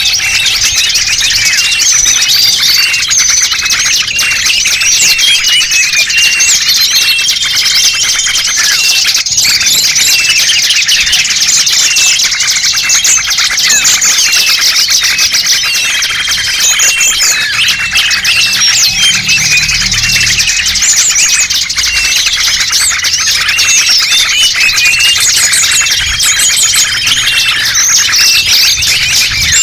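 Dense, loud chorus of many small songbirds chirping and twittering over one another, with short steady whistled notes recurring every several seconds: a pikat recording played to lure small wild birds.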